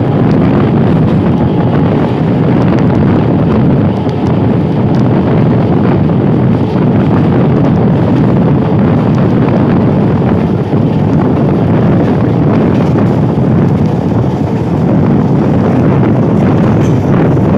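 Wind buffeting the microphone over the steady running noise of an electric multiple unit local train moving along the track, with a few light clicks.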